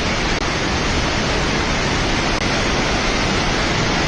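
Floodwater of a river in flash flood rushing past, a dense steady roar of water that never lets up.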